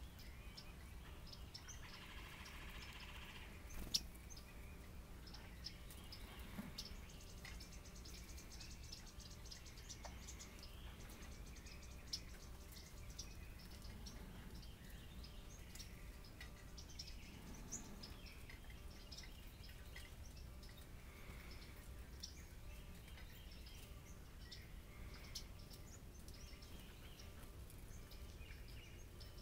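Faint, scattered bird chirps and short high calls over a low background rumble, with a sharp click about four seconds in.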